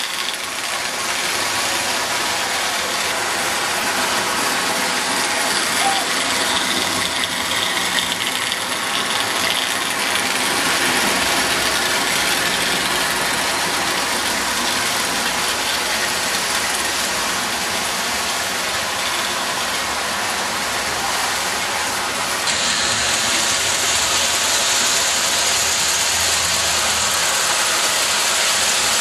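Marx toy train running on its track, the 1666 locomotive pulling a string of freight cars: a steady whir of the motor and clatter of wheels on the rails. About three-quarters of the way through the sound turns brighter and a little louder.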